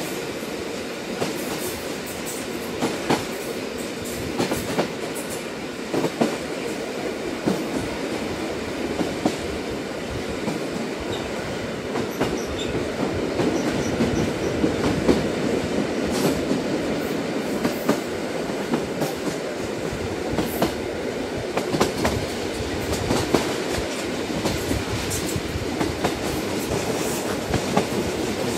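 Train running along the rails: a steady rumble with irregular clicks and clacks of the wheels over the track.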